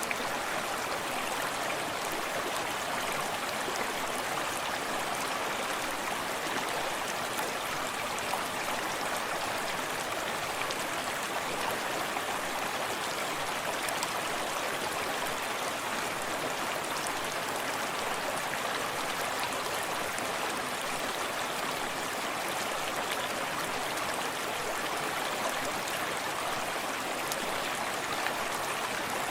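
A small forest stream running steadily over stones, with water lapping and babbling close by, and a small waterfall cascading further off.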